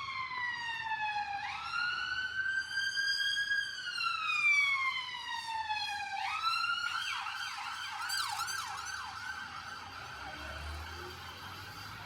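Emergency vehicle siren sounding a slow wail, rising quickly and then falling slowly, that switches to a fast yelp about seven seconds in and then fades as it moves away.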